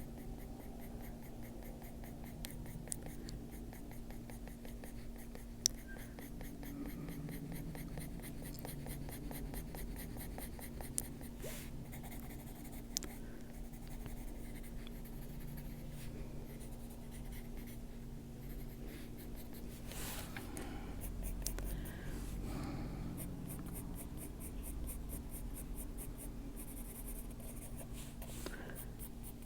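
Faber-Castell Polychromos coloured pencil shading on paper: a faint, steady scratching of pencil strokes, with a few light ticks.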